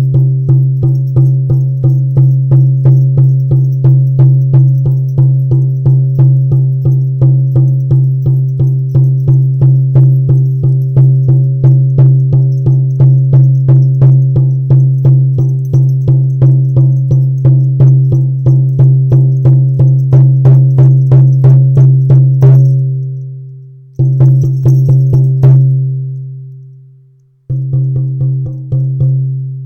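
Frame drum of blacktail deer hide on a yellow cedar hoop, struck steadily about three times a second, each stroke ringing into a deep, sustained boom. The beat stops about two-thirds of the way through and rings out, returns briefly, then starts again near the end after a short pause.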